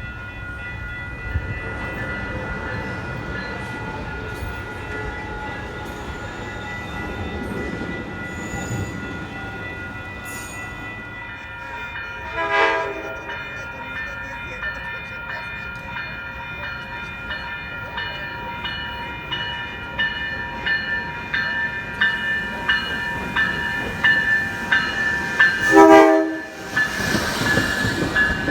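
A train running on the rails with steady high ringing tones and wheel clatter, louder toward the end. Its horn sounds two short blasts, about 12 seconds in and again near the end.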